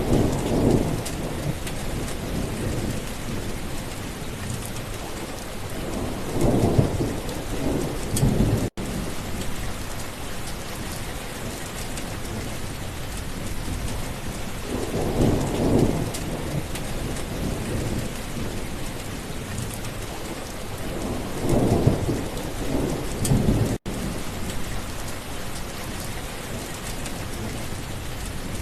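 Steady rain falling, with several low rolls of thunder rumbling through it. The sound cuts out for an instant twice.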